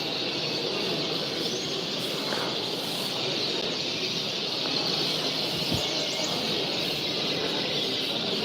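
A flock of small caged birds chirping and chattering continuously, many voices overlapping into a dense high twittering.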